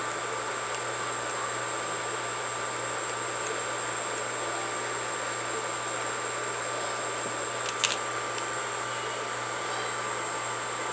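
Steady whirring background noise with a low hum and a few constant tones, and one sharp click about three-quarters of the way through.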